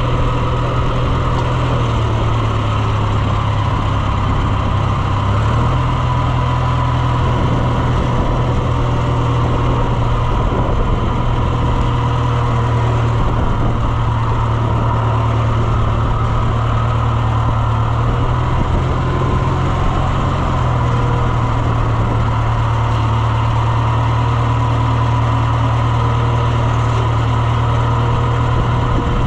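Engine running steadily at an even speed, with a thin steady whine above the low hum.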